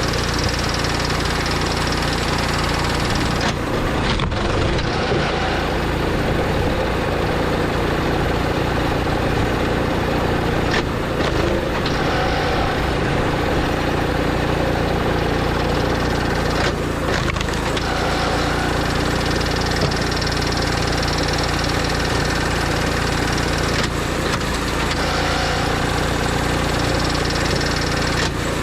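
An engine running steadily, with a few sharp knocks spread through it.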